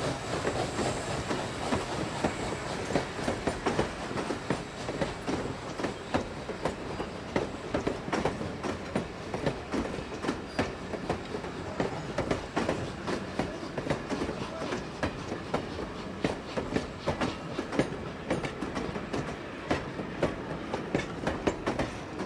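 A train rolling on rails, its wheels knocking over rail joints in a continuous stream of sharp clicks over a steady rumble.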